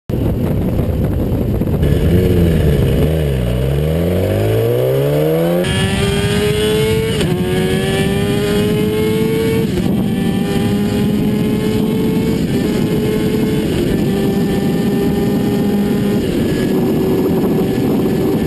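Kawasaki ZX-10R's inline-four engine under hard acceleration. The revs dip and climb again in the first few seconds, then rise in each gear and drop sharply at each of about five upshifts. Wind noise runs under the engine.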